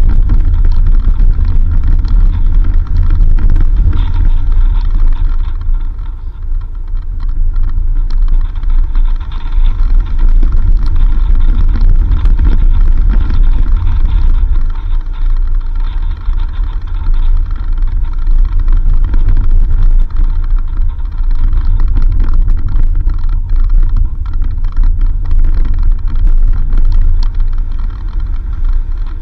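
4x4 vehicle driving along a dirt road: a steady low rumble of engine and tyres, with scattered small knocks and rattles.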